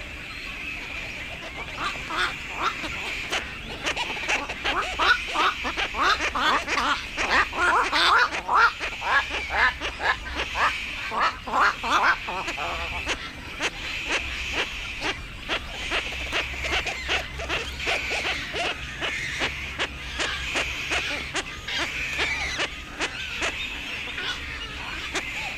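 Black-crowned night herons giving harsh, duck-like clucking calls in a rapid chattering series, densest in the first half.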